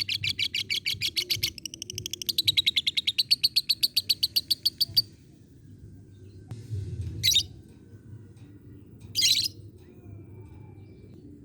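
Lovebird chattering in a rapid, even run of sharp high chirps, about ten a second, for roughly five seconds with a brief break: the long 'ngekek' call. It then gives two short single calls a couple of seconds apart.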